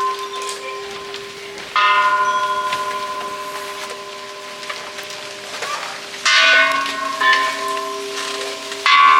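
Hanging Buddhist temple bells struck three times, a few seconds apart. Each strike rings on in clear steady tones that slowly fade, and the later strikes add a second, lower bell.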